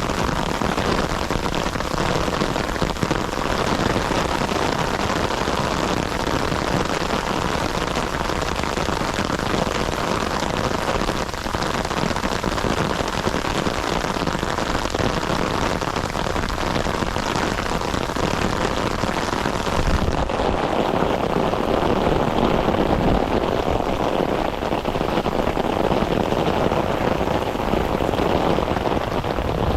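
Heavy rain falling steadily, a dense even hiss. About two-thirds of the way through, the sound turns duller and deeper, with less hiss at the top.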